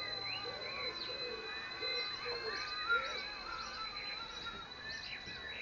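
Wild birds singing and chirping over the steady high-pitched whine of a small RC ERA A60 helicopter in flight.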